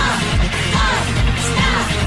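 Upbeat idol-pop song intro: a steady kick-drum beat about twice a second under short, high vocal calls.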